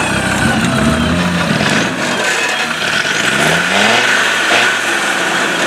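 Off-road trial 4x4's engine running under load in a log obstacle. It revs up about three seconds in and then drops back.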